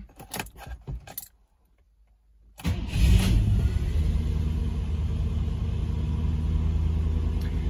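A few short clicks, then the 3.5-litre V8 of a Rover SD1 3500 on SU HIF44 carburettors is cold-started. It catches suddenly about two and a half seconds in and settles straight into a steady idle.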